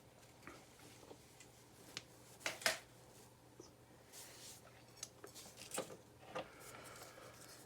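Faint scattered clicks and taps of a small relay and circuit board being handled on a workbench, with the loudest ticks about two and a half seconds in and near six seconds.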